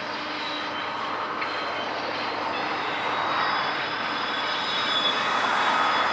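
Intermodal freight train cars rolling past on a curve: a steady rumble of steel wheels on rail with thin, high wheel-flange squeals held over it, growing a little louder near the end.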